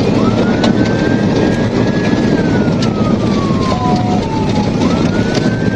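Police siren on a slow wail, climbing to a high tone, holding, then sliding down and climbing again near the end. Heavy road and engine noise from the pursuit vehicle runs underneath.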